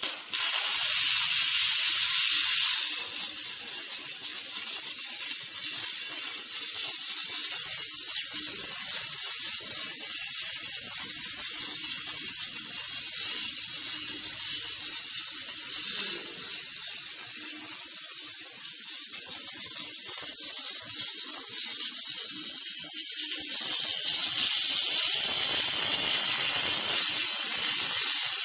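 Robotic arc welding: the welding arc crackles and hisses steadily, louder for the first few seconds and again for a few seconds near the end, over a faint steady hum.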